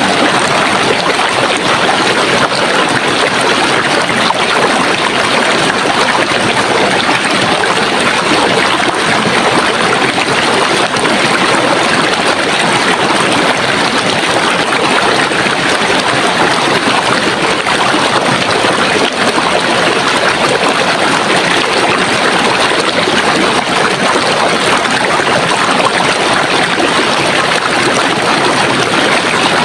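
Running water of a stream, a steady, even rush and trickle.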